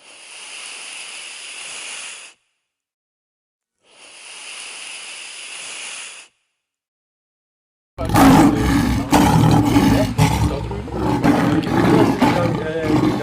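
Two breathy, high-pitched sounds of about two seconds each with a silent gap between them, then from about eight seconds in a much louder, rough, continuous animal call.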